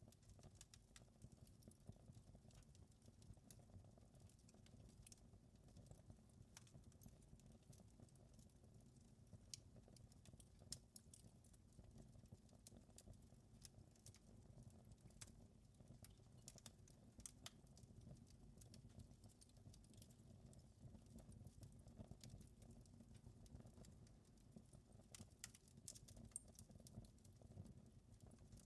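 Wood fire in a fireplace crackling faintly: irregular small pops and snaps over a low steady background of the burning fire.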